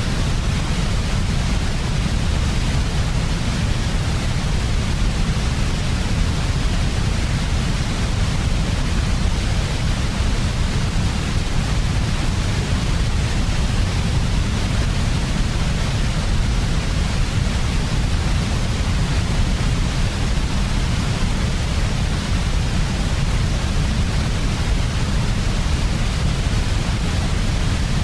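Steady synthetic sleep noise, an even hiss heavier in the deep end than in the highs, unchanging throughout.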